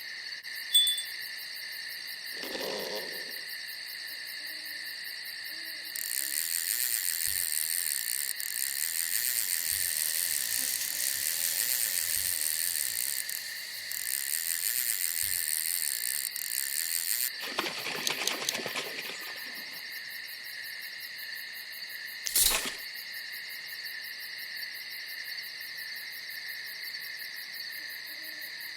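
Night insects, crickets among them, trilling in a steady, rapidly pulsing chorus that swells from about six seconds in and eases back around seventeen seconds. A short low call comes about two and a half seconds in, and a sharp knock about two-thirds of the way through.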